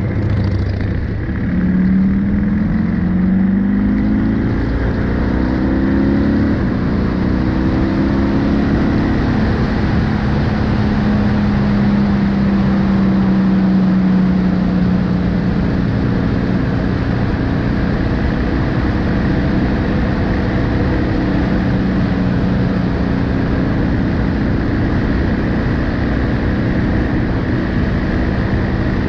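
BMW R1250GSA motorcycle's boxer-twin engine accelerating through the gears: its pitch climbs and drops back several times in the first nine seconds or so with each upshift. It then settles to a steady cruise under constant wind and road noise.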